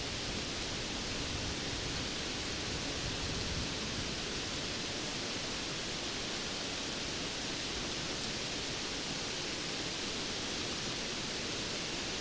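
Steady rain falling, a dense, even hiss with no separate drops or thunder standing out.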